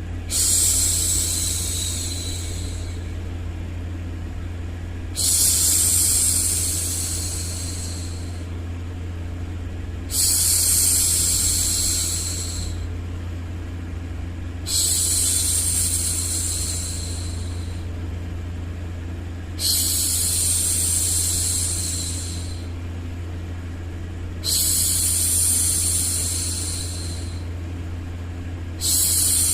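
A woman's voice shushing 'shhh' to hush a baby, one long shush about every five seconds, each coming in sharply and fading away, six in all. Under it runs a steady low noise.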